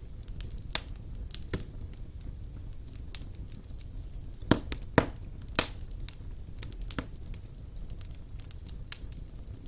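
Wood fire burning in a fireplace: irregular sharp crackles and pops over a low steady rumble, with three louder pops in quick succession near the middle.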